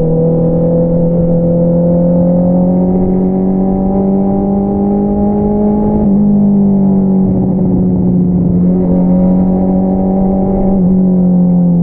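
2022 Honda CBR650R inline-four running through an Akrapovič single-outlet exhaust, the pitch rising gradually as the bike pulls under steady throttle. The pitch then holds, with a small step about six seconds in, and begins to drop as the throttle eases near the end.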